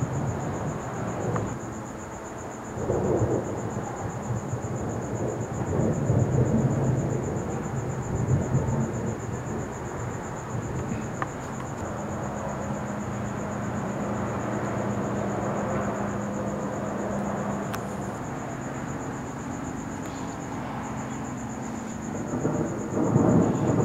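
Thunder rumbling on and off, swelling several times and loudest near the end.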